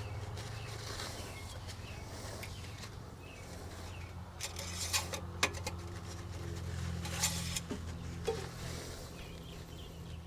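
Motor oil being poured from a bottle into an engine's oil filler, a low steady pour with a few sharp clicks of the bottle being handled partway through.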